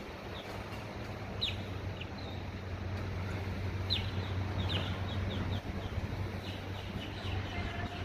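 Birds chirping in the background: short, quick, downward chirps coming in small clusters, over a steady low hum.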